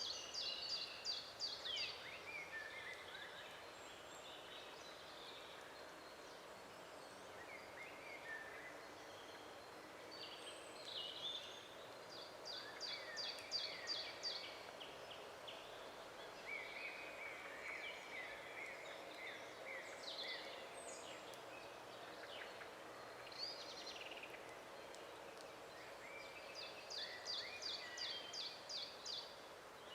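Several songbirds singing in a forest, with scattered short chirps and one bird repeating a fast, high trilled phrase three times, roughly every fifteen seconds. Under the birds there is a faint, steady low background hum.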